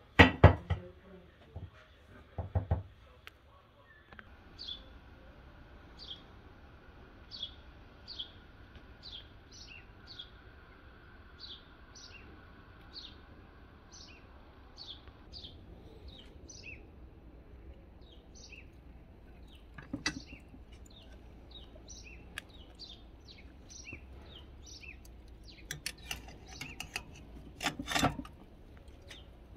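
A small bird repeating short, high chirps, one or two a second, over a faint outdoor hush. At the start a ceramic plate knocks twice on a stone counter, the loudest sounds, and near the end metal tongs click and clank on the grill's steel grate as a slab of short ribs is laid on it.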